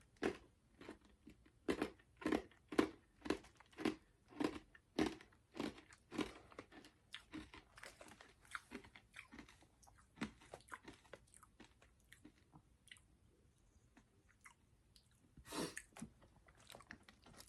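A person chewing a couple of Skittles candies, close to the microphone: regular chews about two a second for some ten seconds, then slowing and fading, with one brief louder noise near the end.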